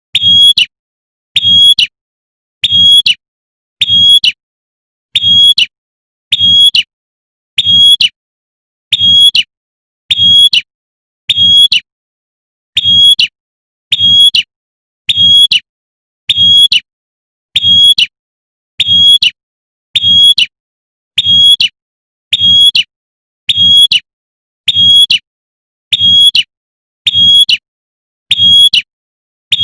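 Female prenjak (prinia) 'tembakan' call, a female calling for a male, repeated as a loop: a short high-pitched burst about every 1.3 seconds, each with a faint low thump beneath it.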